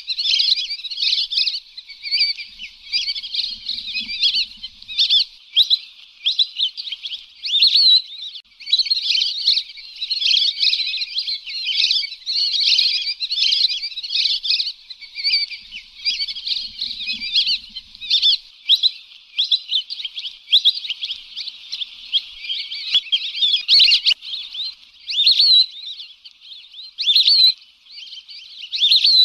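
Lesser whistling ducks calling: many high, thin whistles overlapping without a pause, typical of a flock, played as a lure call.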